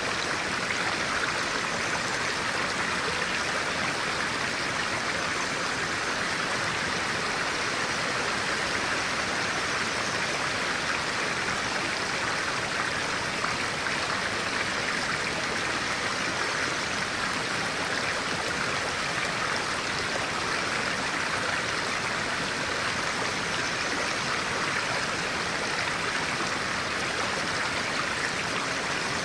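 Clear-water stream flowing, a steady even rush of running water.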